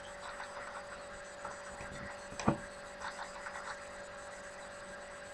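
Quiet room tone with a steady faint hum and a few faint ticks and taps, with one sharper click about two and a half seconds in.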